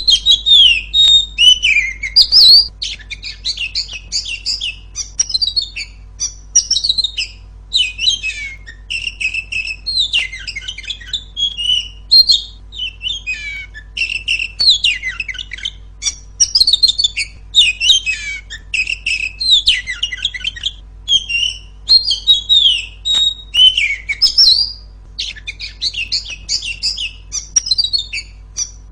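Female Oriental magpie-robin singing loudly: a busy run of varied whistles, sweeping notes and chattering phrases, broken by short pauses.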